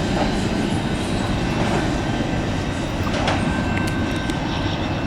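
Canadian National intermodal freight train rolling past, its cars' steel wheels running on the rails in a steady rumble, with a few faint high squeal tones and light clicks.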